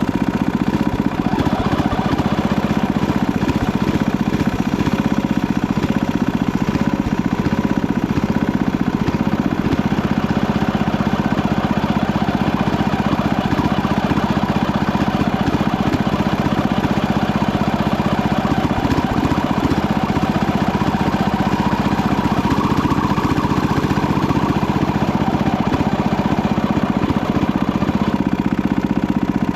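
Panzer T70 garden tractor's engine running steadily under load while pulling a plow.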